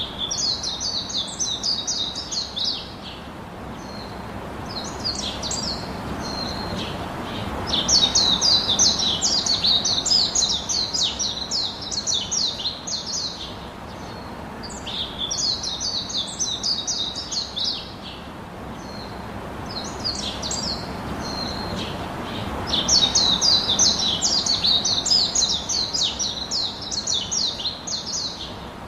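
Birds chirping in rapid, high-pitched bursts of a few seconds each, over a low rushing background that swells and fades.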